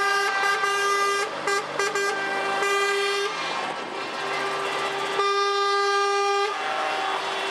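Truck air horns blasting: a held blast, a quick run of short toots, then long held blasts. About six and a half seconds in, a horn of a different pitch takes over.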